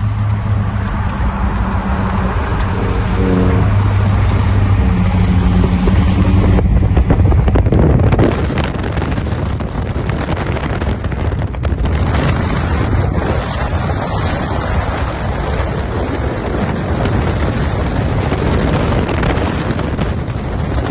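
2008 Saab 9-3 Aero's 2.8 V6 with the muffler deleted, on the move: a steady low exhaust drone for about the first eight seconds, then a loud rush of wind and road noise that covers it for the rest.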